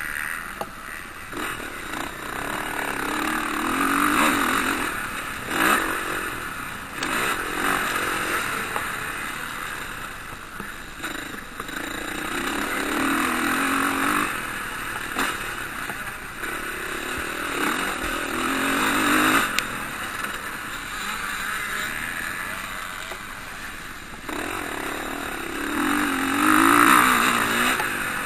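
Motocross bikes racing on the track, their engines revving up and easing off over and over as riders go past in turn. The loudest pass comes near the end.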